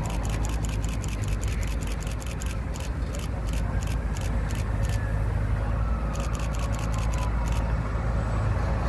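Heavy truck engine running with a steady low rumble, under a rapid even ticking of about five clicks a second that comes and goes.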